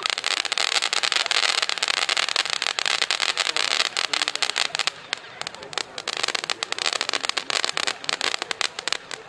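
Fireworks crackling. A dense, rapid crackle with a hiss fills the first four seconds or so, then thins to scattered pops and cracks.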